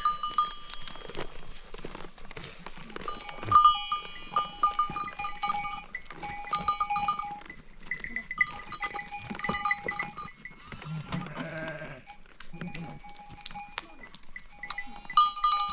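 Sheep and goats bleating, with livestock bells clinking on and off among them.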